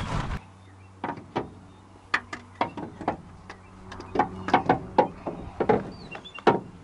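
Irregular sharp metallic clicks and knocks, more than a dozen in a few seconds and bunched toward the middle, over a steady low hum. They fit hand work on the truck's starter.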